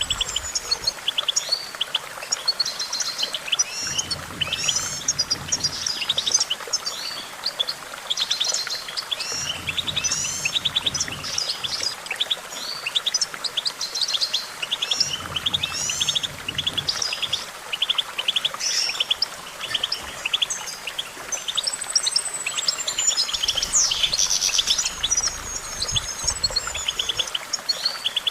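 European goldfinch singing: a long, unbroken run of rapid twittering chirps, trills and short whistled glides.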